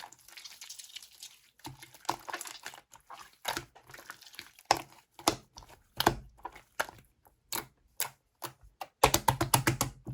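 Slime being pressed and squished by hand, making a string of irregular sharp clicking pops about every half second, then a quick rapid run of pops near the end.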